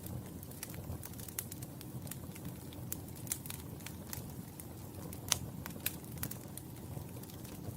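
Wood fire in a fireplace crackling: scattered sharp pops and snaps over a low steady rumble of burning, with one louder pop about five seconds in.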